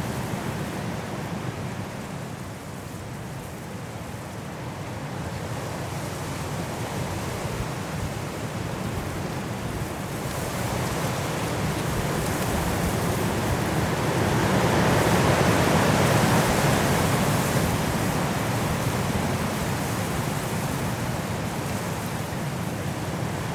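Strong wind blowing through trees in a snowstorm, a steady rush that eases a little, then builds into a strong gust in the middle and dies back down.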